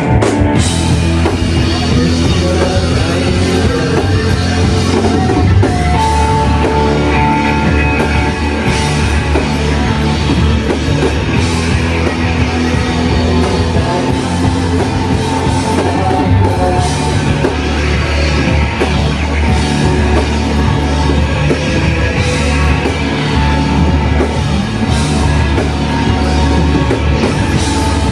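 A rock band playing live at full volume: a dense wall of distorted electric guitars over bass and a drum kit, in the heavy shoegaze style, the full band coming in just before.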